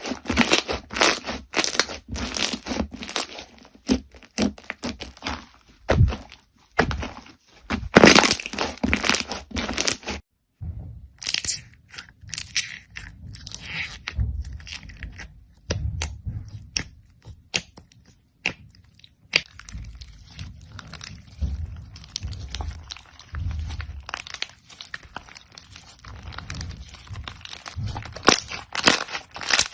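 Crunchy slime being squeezed and pressed by hand: dense crackling and popping. The sound breaks off for a moment about ten seconds in, then continues as softer crackles with low, squishy thuds.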